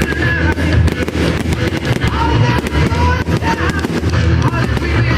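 Fireworks going off in rapid crackles and bangs over loud music played with the display.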